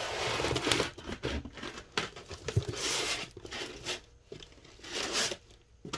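Shipping box and packaging being handled and rummaged through: crinkling, rustling and tearing noises in irregular bursts, most continuous in the first couple of seconds.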